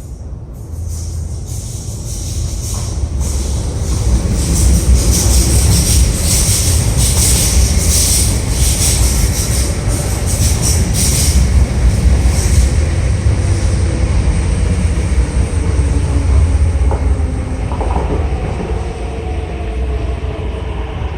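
MTR East Rail line R-train electric multiple unit running along the platform. The rail and wheel noise swells over the first few seconds and stays loud, with a high hissing squeal from the wheels for several seconds, then eases, and faint whining tones come in near the end.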